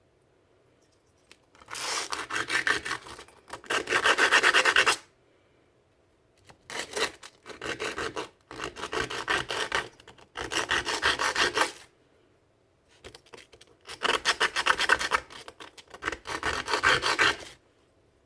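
Sandpaper rubbed by hand against a small Goatguns model gun part: rapid back-and-forth scratchy strokes in bursts of one to two seconds, with short pauses between them.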